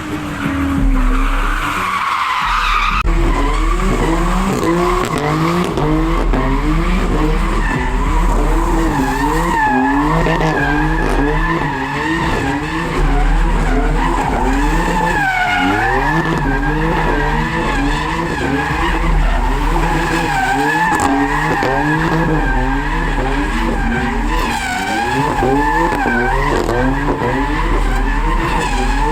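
A car drifting, its tyres squealing steadily throughout while the engine revs rise and fall over and over as the throttle is worked.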